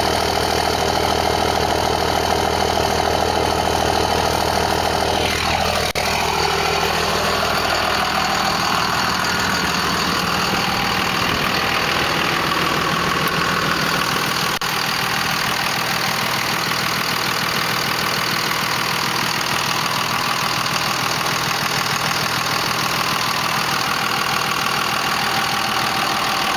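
2001 Cummins 5.9-litre 24-valve inline-six turbo diesel idling through a straight-piped 4-inch exhaust with no muffler. About five seconds in, a whine falls in pitch and the tone of the idle shifts.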